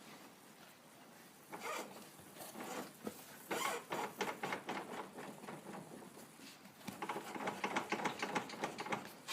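Rapid clicking and knocking in bursts from a 2006 Kawasaki Brute Force ATV wheel with bad wheel bearings and bushings. The fastest run of clicks comes near the end.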